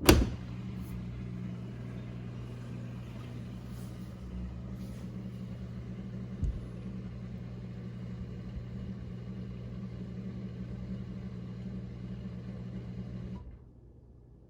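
Dishwasher starting its rinse-only cycle: a click, then a steady low motor hum that stops suddenly about thirteen seconds in, with one dull thump midway.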